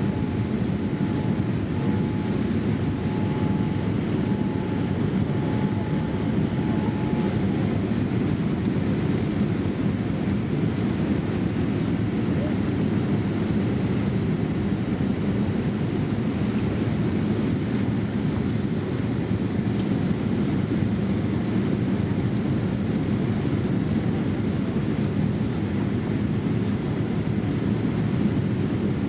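Steady cabin noise inside a Boeing 787-8 in flight: an even, low engine and airflow rush. A faint broken whine sits on top for the first several seconds.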